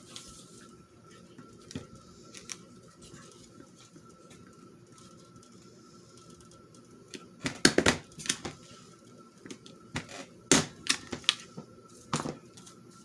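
Paper-crafting handwork: scattered sharp clicks and snips of a hand tool working on paper. They come in clusters about seven to eight seconds in, and again from about ten to twelve seconds in.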